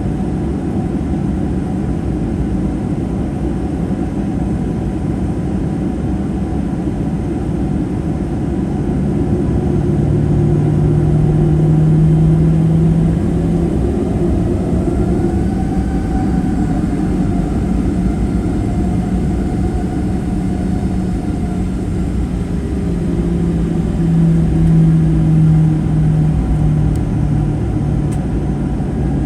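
Steady roar inside the cabin of a Boeing 737-800 with CFM56-7B turbofan engines, heard from a forward seat. The engines' hum swells and shifts in pitch twice, as engine power is briefly changed.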